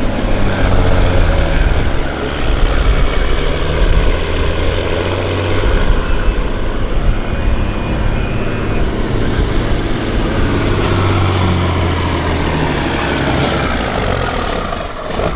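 Semi truck's diesel engine running hard at full throttle under heavy load while pulling the weight sled, with a faint high whine drifting up and down above the engine.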